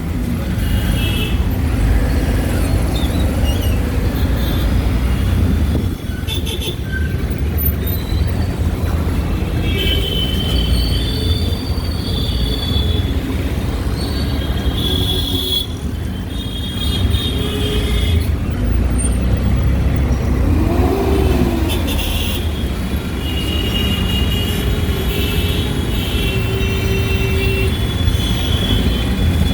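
Steady engine and road rumble heard from inside a moving auto-rickshaw, with high-pitched vehicle horns beeping again and again from the surrounding traffic, some short toots and some held for a second or two.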